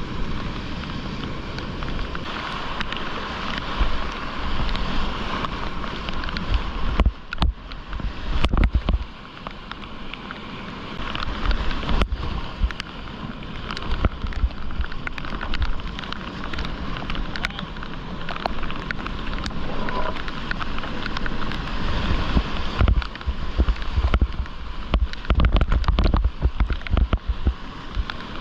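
Rushing whitewater around a kayak, with splashes and occasional sharp knocks, and gusts of low rumbling buffeting on the GoPro's microphone.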